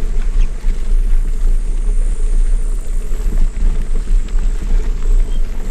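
Low, loud rumble of wind buffeting the microphone together with mountain-bike tyres rolling over a dirt trail while riding.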